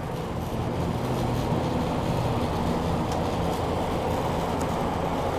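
Regular 8mm film projector running steadily: an even mechanical whirr over a low hum, with a few faint ticks.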